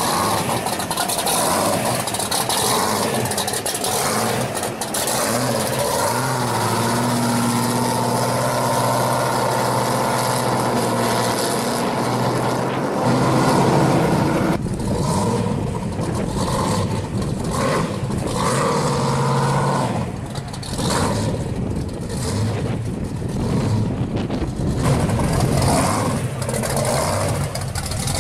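Supercharged V8 of a blown 1970 Chevrolet Camaro pro street car, its blower and scoop standing through the hood. It runs steadily, then from about halfway through revs in repeated rising surges as the car drives off.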